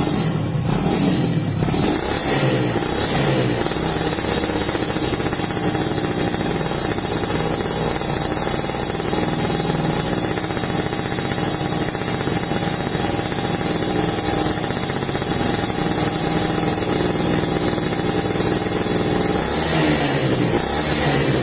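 Yamaha F1ZR's single-cylinder two-stroke engine and exhaust, revved up and down a few times, then held at a steady speed for about fifteen seconds before being revved again near the end.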